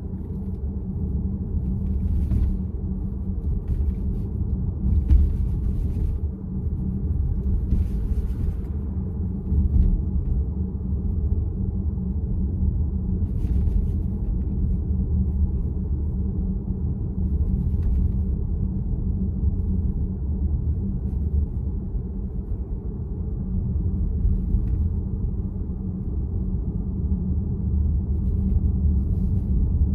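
Steady low road and tyre rumble inside the cabin of a moving VW ID.4 battery-electric car, with no engine note. A few brief, faint higher noises come at intervals.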